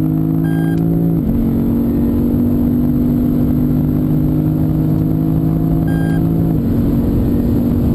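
Lexus IS F's 5.0-litre 2UR-GSE V8 running under load, a loud steady engine note that drops sharply in pitch about a second in and again near the end, like upshifts.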